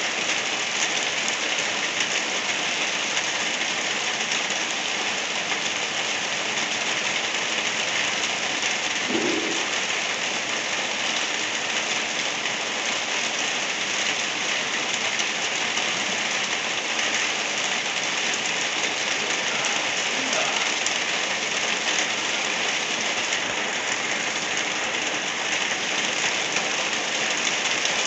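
Soft rain falling steadily, an even hiss of many drops on surfaces.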